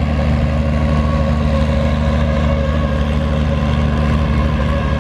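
A farm tractor engine running loud and steady at an even speed.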